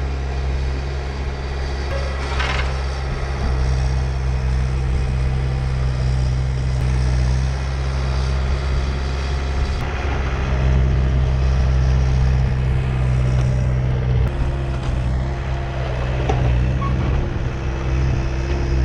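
Diesel engine of a Bobcat T190 compact track loader running steadily, a continuous low drone with an extra steady higher tone joining about two thirds of the way through.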